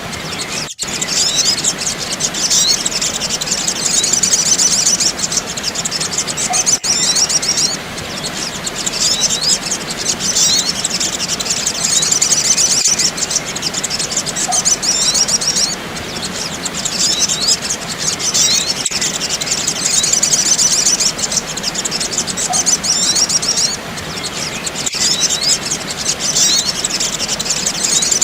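Recorded calls of the sogok ontong sunbird played as a bird-lure track: busy, high-pitched chirps and twitters. The recording repeats in a loop about every six seconds, with a brief gap at each join.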